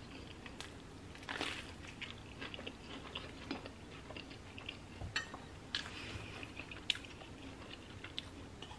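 A person chewing a bite of toasted sandwich close to the microphone: soft, crackly chewing and mouth sounds, with small clicks scattered throughout.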